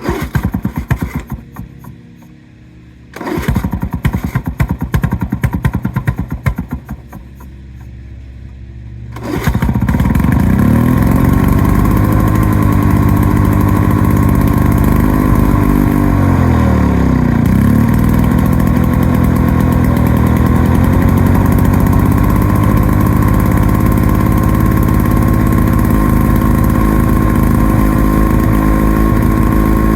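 Lawn-Boy 8073B two-stroke mower engine being pull-started. It sputters and fires in two short ragged runs that die away, a hard start after the mower has sat unused. About nine seconds in it catches and runs steadily, its speed sagging briefly and recovering partway through.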